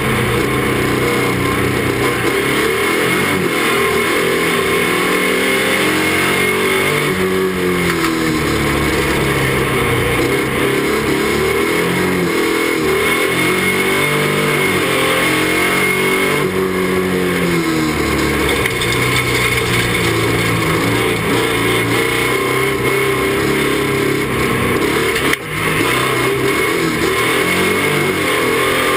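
Ford Granada Estate banger's engine, heard from inside its stripped cabin while racing, revving up and down over and over as the throttle is worked through the bends. It is loud and rough, with constant rattle and road noise.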